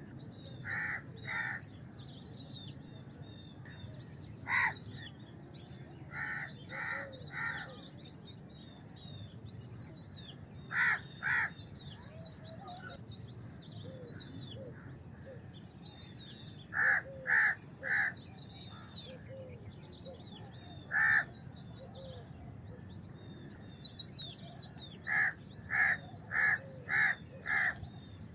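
House crow cawing in spaced groups of one to five caws, about seventeen in all, the last group a run of five near the end. Smaller birds chirp continuously in the background.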